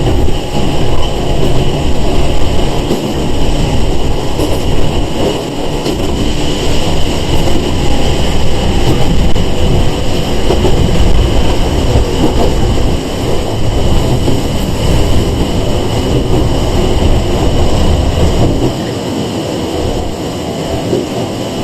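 Interior running noise of a Sangi Railway 101 series electric train (ex-Seibu 401 series) under way: a steady rumble with a constant high-pitched tone on top. It eases slightly near the end.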